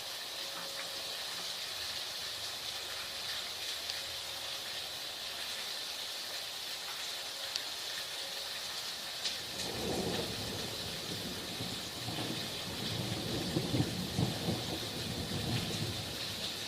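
Heavy rain pouring steadily, with a long rolling rumble of thunder that starts about halfway through and swells toward the end.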